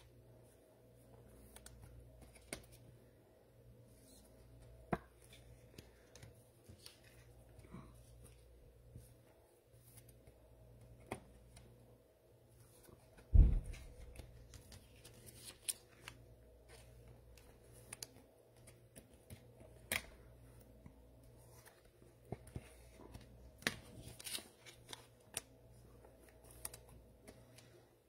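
Hands handling trading cards: scattered soft clicks, rustles and slides, with one louder thump about 13 seconds in.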